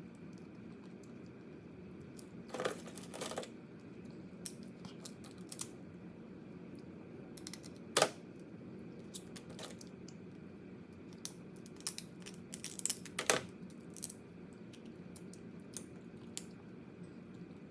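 Crab shell being cracked, torn apart and picked at while eating: scattered sharp cracks and clicks, with the loudest crack about eight seconds in, over a steady low hum.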